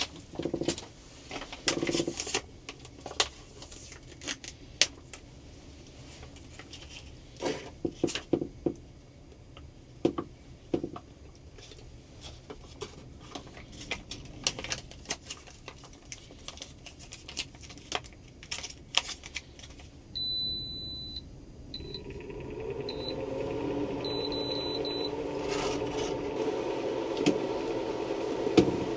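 Scattered clicks and light knocks of small objects being handled. About 20 s in, an electronic appliance gives a high beep, then several shorter beeps, and a steady electric hum starts up and grows louder.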